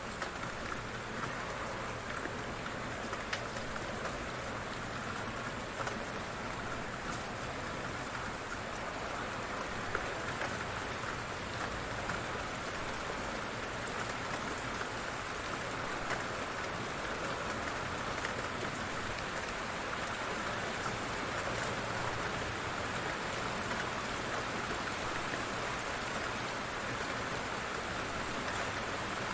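Light rain falling steadily, an even hiss of rain with a few distinct drop ticks now and then.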